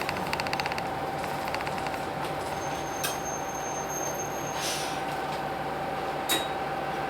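Hino Blue Ribbon City bus with its P11C diesel engine running steadily under a constant whine. There is a short hiss of air about four and a half seconds in, and two sharp clicks, one near the middle and one near the end.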